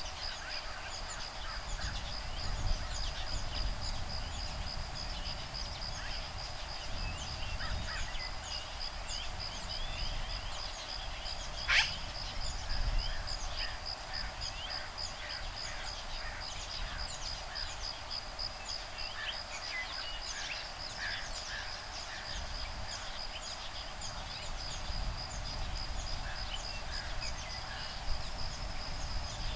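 An insect's steady, rapidly pulsing high trill, with many short bird chirps and calls scattered over it and a low rumble of breeze. One sharp click comes about twelve seconds in.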